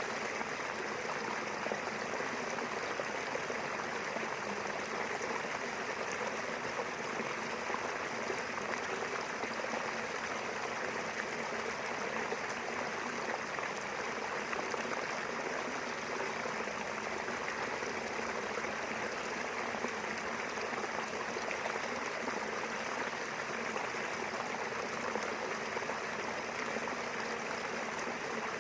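Small river running steadily, an even rushing and babbling of flowing water.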